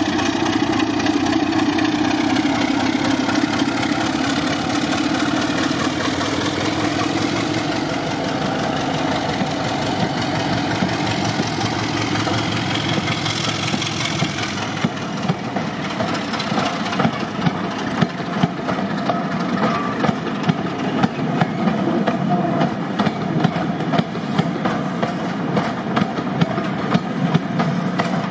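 Diesel locomotive engine running under power with a slight change in pitch. From about halfway, regular clicks of train wheels over rail joints come in and grow more frequent as the train passes.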